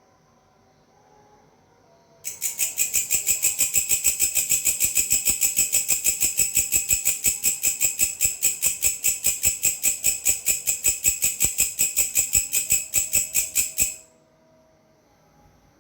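A grasshopper stridulating: a loud, high, rapidly pulsed buzz at about five to six pulses a second. It starts about two seconds in and breaks off abruptly near the end.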